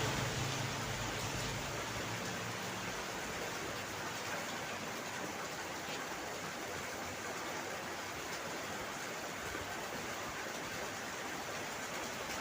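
Steady rain, an even hiss with no distinct drops or rhythm. A low rumble fades out in the first few seconds.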